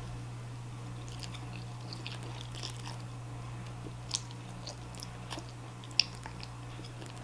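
Close-up chewing and mouth sounds of a person eating udon noodles: faint wet clicks and smacks, the two sharpest about four and six seconds in, over a steady low hum.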